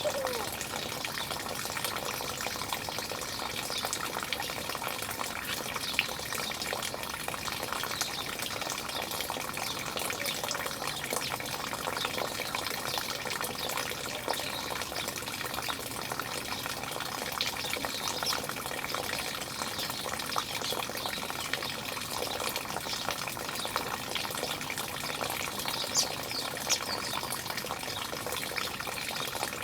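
Running water, with short bird calls here and there; a few sharp calls stand out near the end.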